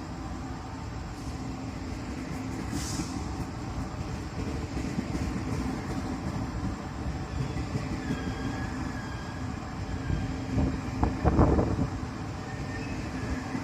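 Taiwan Railways train running with a steady low rumble, a brief high hiss about three seconds in and a thin wheel squeal around eight seconds. A cluster of loud knocks comes near the end.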